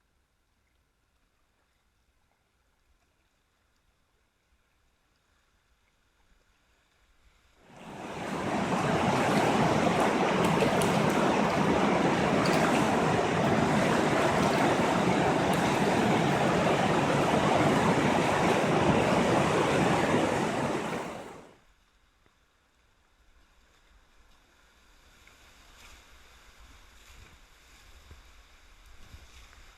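Rushing whitewater of a flooded river rapid: a loud, even roar that comes in sharply about eight seconds in, holds for about thirteen seconds and cuts off, leaving faint water noise that slowly builds again.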